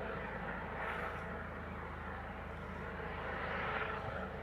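Mountain bike riding over a dirt trail: a steady rushing of tyre noise and wind on the microphone, with a low rumble.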